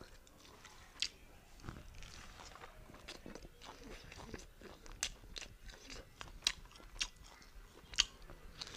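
A person chewing a mouthful of beef curry and rice, close to a clip-on microphone: soft wet chewing with a few sharp mouth clicks scattered through it.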